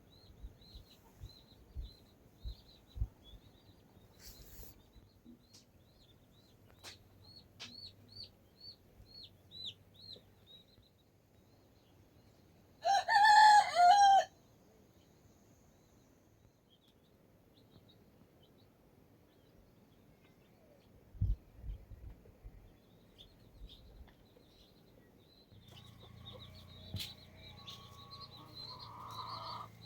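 A rooster crowing once, about halfway through, a single call of about a second and a half. Small birds chirp in repeated short high calls through the first third.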